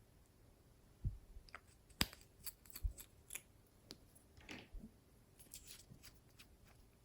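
Slime being squeezed and pulled by hand: scattered sticky clicks and small pops, with a few soft low thumps about a second apart as it is pressed.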